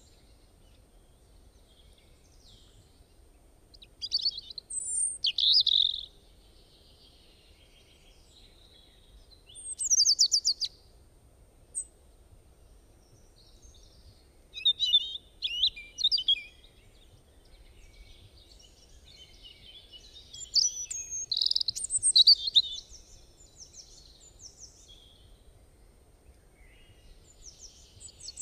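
Small songbirds chirping and singing in quick, high phrases that come in bursts every few seconds, with quiet gaps between. A faint, steady, high-pitched tone runs underneath.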